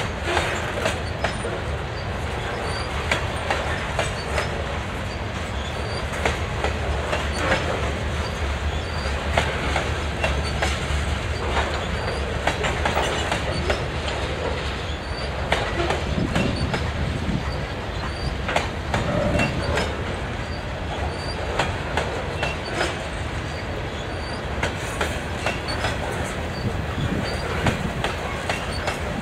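Loaded covered hopper cars of a potash freight train rolling past: a steady rumble with frequent irregular clicks of steel wheels over the rail joints.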